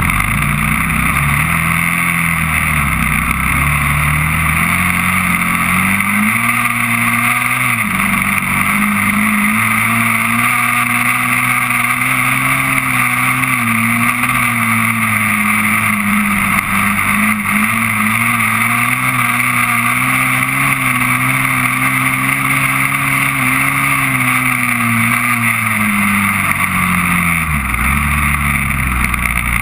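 Honda TRX400EX quad's single-cylinder four-stroke engine under way: it revs up over the first few seconds, drops sharply near eight seconds as it shifts up, holds speed with the throttle rising and easing, then winds down near the end.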